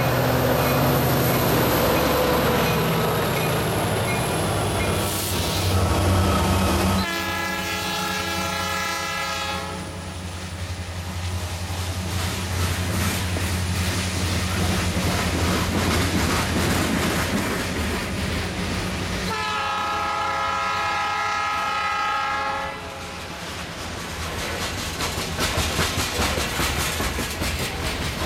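Diesel locomotives of a heavy freight train running past, then loaded hopper cars rolling by with a steady clickety-clack of wheels over the rails. The locomotive horn sounds two long, steady blasts, about seven and nineteen seconds in, each lasting some three seconds.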